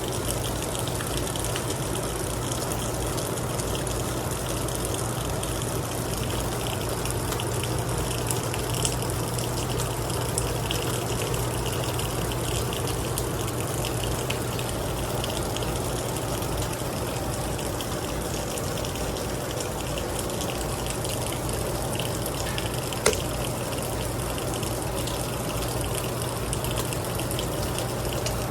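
Heavy rain pouring down steadily, with a few sharp ticks of drops striking something hard. The loudest tick comes about three quarters of the way in.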